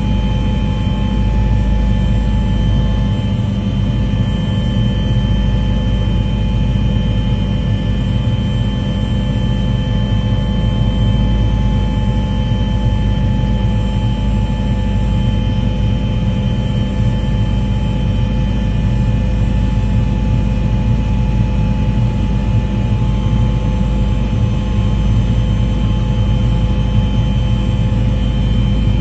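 A steady engine drone with several constant whining tones over a deep rumble, unchanging in level.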